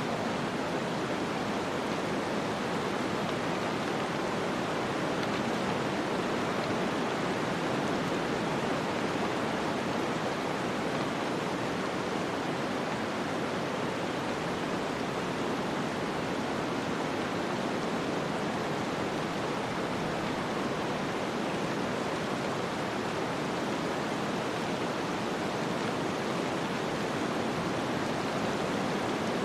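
Steady snowstorm wind ambience: an even, unbroken rushing noise with no distinct gusts or other events.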